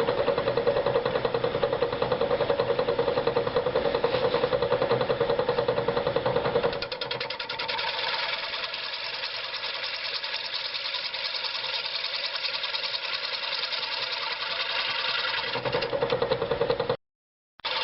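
Wood lathe spinning a large wooden bowl blank while a turning tool cuts it, with a fast, even chattering rhythm. About seven seconds in the cut becomes lighter and quieter. It comes back heavier near the end, then cuts off suddenly.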